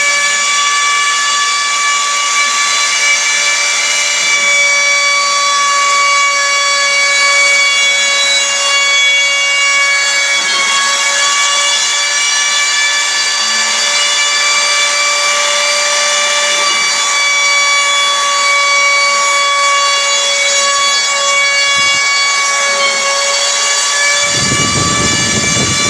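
CNC router spindle running with a steady high-pitched whine while cutting wood. A rougher, lower noise joins near the end.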